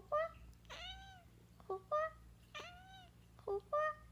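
A cat meowing over and over: short clipped meows alternating with longer drawn-out meows that rise and then fall in pitch.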